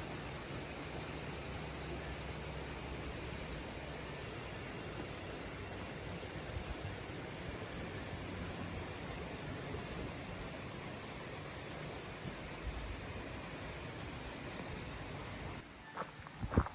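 A steady, dense high-pitched insect chorus that gets louder about four seconds in and cuts off abruptly near the end. A few sharp knocks or steps follow it.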